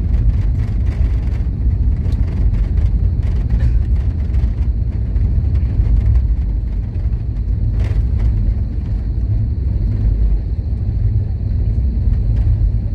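Airliner cabin noise during landing: a loud, steady low rumble of engines and rushing air heard from inside the cabin, with a few short rattles in the first seconds and a sharp click about eight seconds in.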